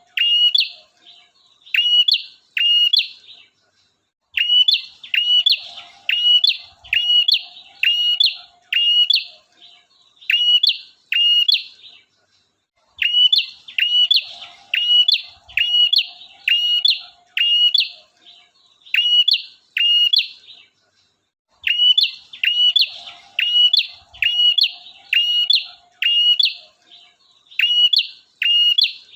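Male prenjak (prinia) singing loudly and persistently, as lure song: sharp, hooked notes repeated about twice a second in long runs broken by brief pauses.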